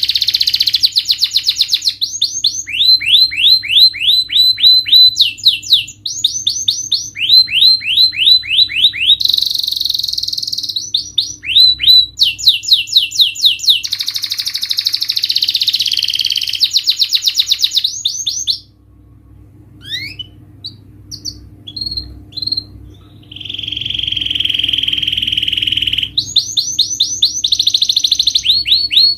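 Domestic canary singing: fast trills of repeated rising notes alternating with buzzy rolls. About two-thirds through the song thins to a few seconds of scattered short chirps, then a steady, lower roll leads back into the fast trills.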